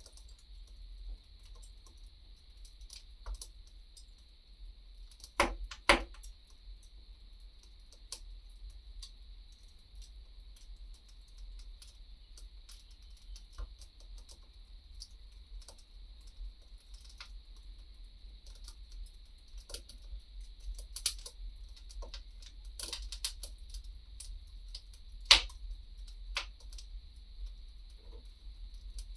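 Wood fire crackling: scattered small snaps with a few louder pops, the loudest about 25 seconds in, over a steady faint high hiss.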